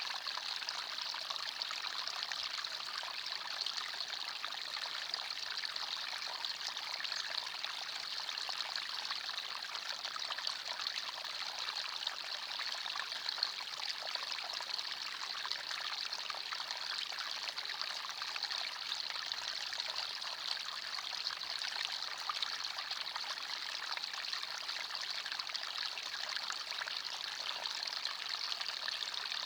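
Small forest stream running over stones, a steady babbling and trickling of water.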